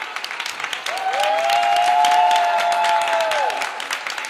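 Audience applauding steadily, with a long held cheer from a couple of voices that starts about a second in and drops away after two and a half seconds.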